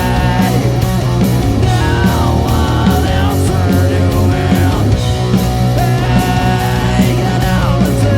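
Live rock band playing loudly, with held notes that bend up and down over a steady bass line and an even drum beat.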